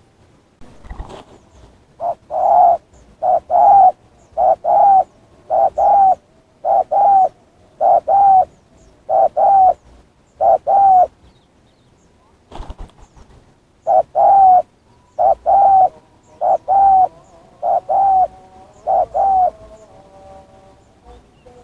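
Doves cooing loudly in short two-note phrases, repeated about once a second, with a break of a few seconds midway. Near the end the coos give way to faint, soft notes.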